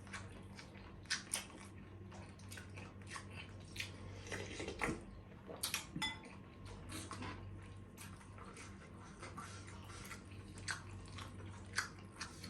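Eating sounds close to the microphone: chewing and bites with scattered clicks of cutlery against dishes, over a steady low hum.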